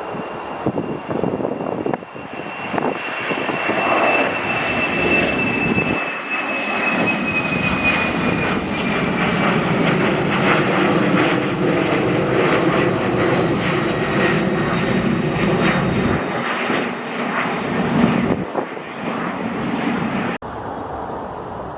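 Airliner passing close by: its engine noise swells, holds and fades, with a high whine that slowly drops in pitch. Gusty wind buffets the microphone.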